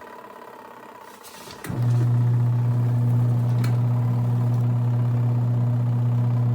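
Portable twin-tub washing machine's wash motor: after a pause, it switches on with a click about two seconds in and runs with a loud, steady low hum, the stop-and-go of the wash cycle's agitation.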